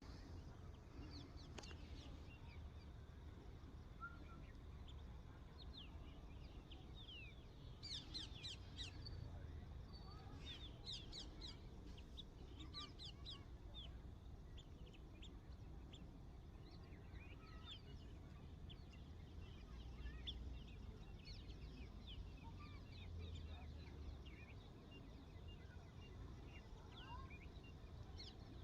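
Birds chirping and calling with many quick, high chirps, busiest from about eight to thirteen seconds in, over a faint low rumble.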